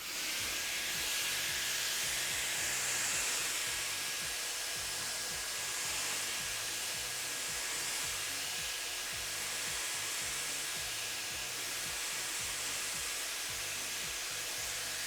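M Ionic hair dryer, a high-speed 110,000 RPM motor, blowing through its air-wrap curling barrel attachment: a steady rushing hiss with a faint high motor whine, switched on abruptly at the start. Background music with a steady beat plays underneath.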